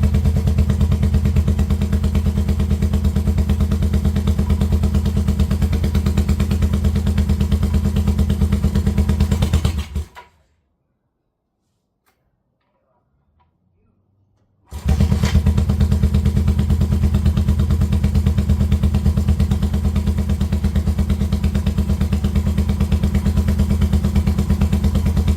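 1971 Honda CB350 scrambler's air-cooled parallel-twin engine running steadily at a fast idle on its first start after a rebuild, its carburettors not yet tuned. The sound cuts off suddenly about ten seconds in and starts again as suddenly some four seconds later.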